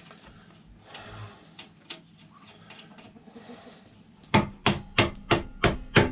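Hammer striking metal on a motorcycle's rear-wheel hardware, six quick, evenly spaced blows at about three a second in the last two seconds, each with a short metallic ring, after a few seconds of faint tool handling.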